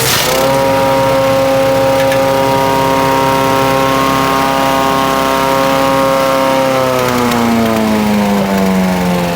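6 hp petrol engine of a wood chipper running at high speed. Right at the start a brief crunch comes with a dip in engine pitch, as under the load of a branch going through. Over the last two and a half seconds the engine slows, its pitch falling steadily.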